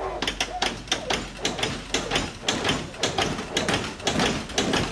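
A rapid, irregular run of sharp taps and knocks, several a second, starting abruptly.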